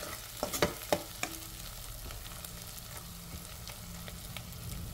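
Tomato, onion and green chilli masala frying in oil in a pan, stirred with a metal spoon: a few scrapes of the spoon against the pan in the first second or so, then a steady sizzle.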